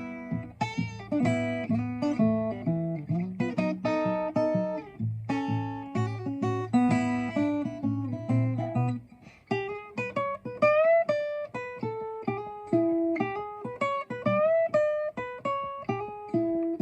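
Instrumental guitar music with no singing: a run of plucked guitar notes over a low bass part, which drops out about nine seconds in, leaving higher picked notes.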